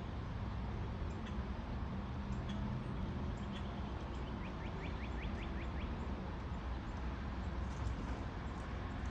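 Birds chirping over a steady low rumble, with scattered short chirps and a quick run of about ten chirps a little past the middle.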